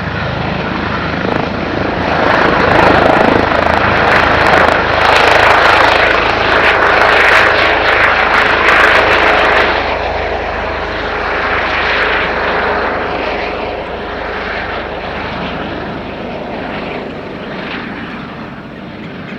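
Airbus H145 (BK117 D-2) helicopter taking off: the rotor and twin-turbine noise grows about two seconds in, stays loud for several seconds, then slowly fades away.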